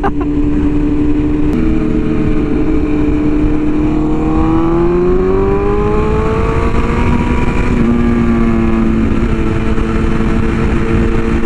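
BMW S1000RR inline-four engine pulling through the gears while riding. The pitch climbs for a few seconds, then drops at an upshift about eight seconds in, with heavy wind rush on the microphone throughout.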